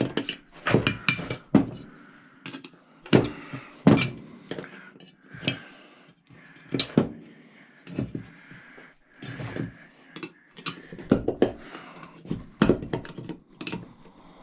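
Irregular clanks and clinks of small metal scrap parts being handled, knocked and tossed aside, a dozen or so sharp strikes, some ringing briefly.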